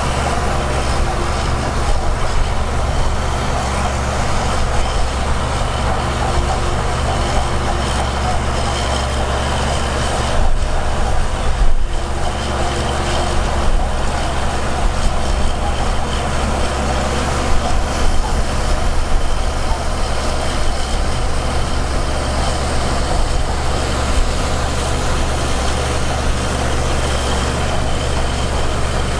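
Heavy diesel earthmoving machinery running steadily, with a constant deep engine drone.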